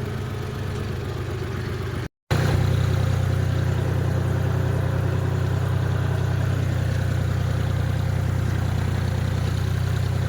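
Tractor engine running steadily at a constant speed. The sound cuts out for a moment about two seconds in, then returns louder and stays steady.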